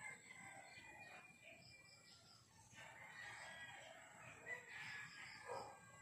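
Near silence with faint bird calls, strongest in the second half.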